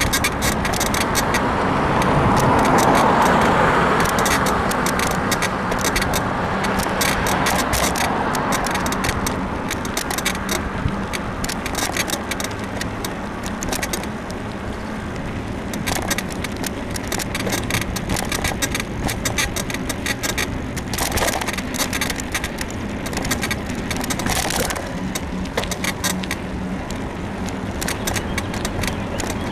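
Mountain bike's frame suspension creaking and clicking rapidly as it is ridden, over steady rushing wind and tyre noise, with a swell of louder rushing a few seconds in. The rider thinks the creak comes from a worn suspension bushing in the frame.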